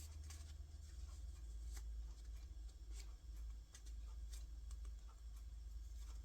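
Faint rustling and light scattered clicks of paper craft pieces being handled and pressed into place, over a steady low hum.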